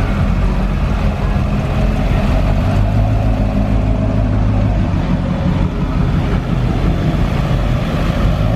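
Truck engine running loud and steady, a low exhaust note with no pauses.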